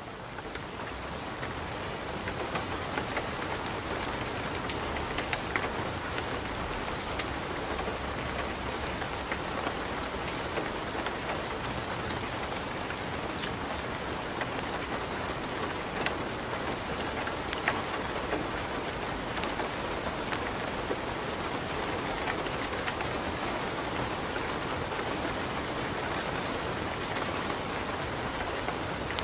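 Wood fire burning in a fireplace, crackling and popping over a steady hiss.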